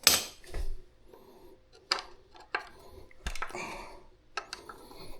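Hand tools being picked up and handled: a string of separate clinks and knocks, with some rustling in between.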